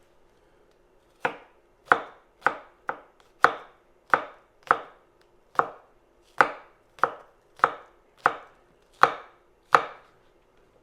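Kitchen knife slicing scallions on a cutting board: about fourteen separate chops at an unhurried pace, each a sharp knock of the blade on the board.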